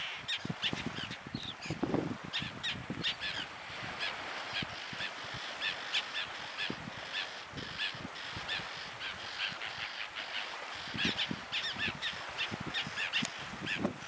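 Birds calling: short calls repeated several times a second without a break.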